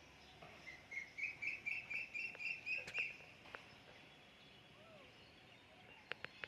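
A bird calling a quick run of about nine repeated, slightly rising notes, at roughly four a second, over about two seconds. A few sharp clicks follow near the end.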